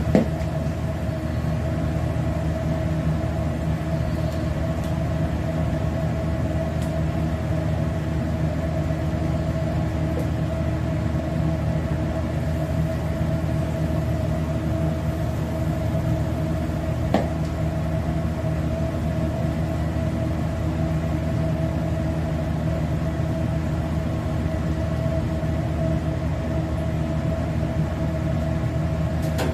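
Steady mechanical hum from a running motor or fan, unchanging throughout, with a single light click about halfway through.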